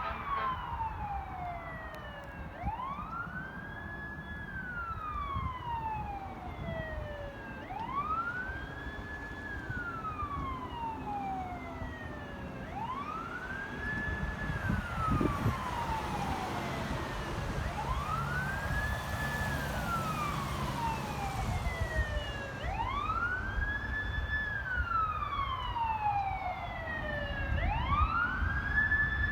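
Fire truck siren sounding a wail: each cycle rises quickly and falls slowly, repeating about every five seconds, six times in all, over a low traffic rumble.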